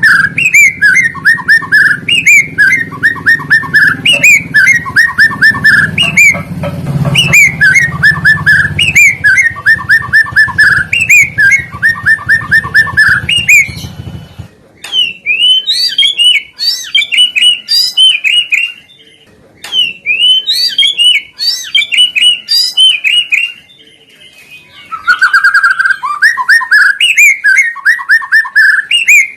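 Songbird song used as a lure recording to set white-rumped shamas singing: fast runs of repeated sharp notes. A low hum beneath stops about halfway, after which the song comes in shorter phrases with brief pauses.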